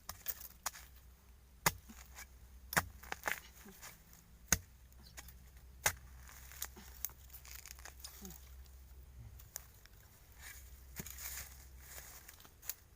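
Chopping at wild bamboo shoots in undergrowth: sharp, irregular blows about a second apart, with rustling and crackling of leaves and stems between them.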